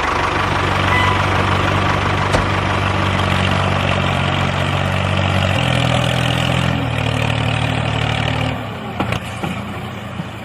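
Small engine of a homemade mini loader tractor running steadily under a mechanical clatter, its pitch stepping a couple of times midway. The engine note drops out about eight and a half seconds in and the remaining noise fades.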